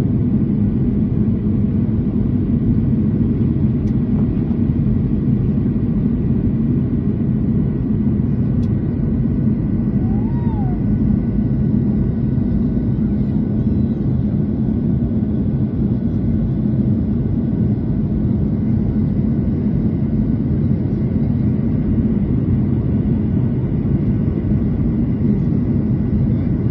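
Steady rumble inside the cabin of a Boeing 737-800 airliner in flight: its jet engines and the airflow, unchanging throughout. A faint short rising-and-falling tone sounds about ten seconds in.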